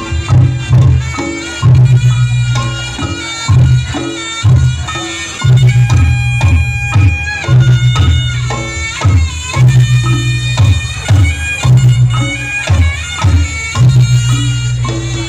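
Reog Ponorogo gamelan music: a slompret, a nasal reed pipe, plays a wavering melody over a heavy low drum and gong beat about once a second.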